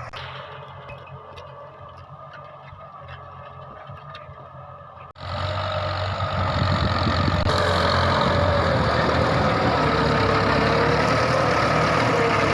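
Tractor engine running steadily. About five seconds in, the sound breaks off and comes back louder, with a slightly wavering engine note.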